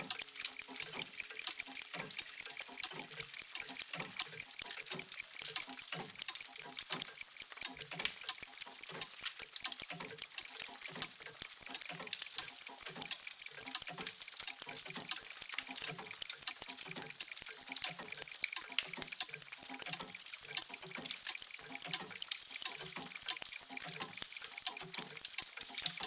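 Many mechanical clocks ticking at once, their ticks overlapping into a dense, steady clatter of sharp clicks with irregular lower knocks among them.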